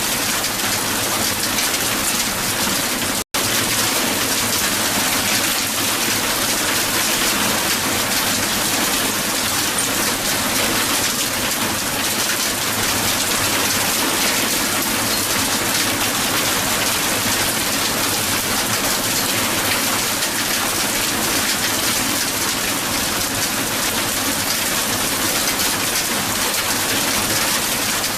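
Heavy hail falling and striking a hard surface: a dense, steady hiss of countless small impacts. It cuts out for an instant about three seconds in, then carries on unchanged.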